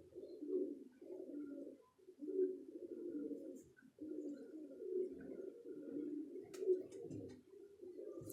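Domestic pigeons cooing steadily, several birds' low rolling coos overlapping, with a few faint clicks about two-thirds of the way through.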